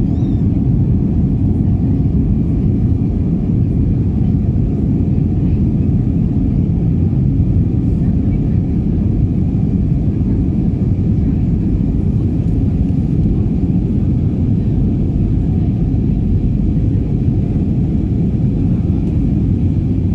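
Cabin noise of an Airbus A320neo in flight, heard from a window seat: the CFM LEAP-1A26 turbofans and the airflow make a steady, deep roar with a faint steady whine above it.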